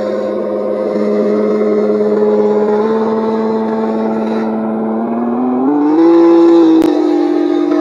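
Land Rover Defender's 300Tdi turbo-diesel engine and drivetrain running under way on a trail, a steady pitched drone that rises in pitch about two-thirds of the way through as it picks up revs. A single sharp click near the end.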